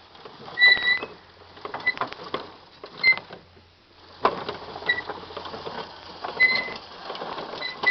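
Hand-cranked Cooch and Sons potato sorter turning slowly. A short, high squeak comes every second or so over light clicking and rattling from the mechanism. The squeak is from a dry moving part that needs greasing.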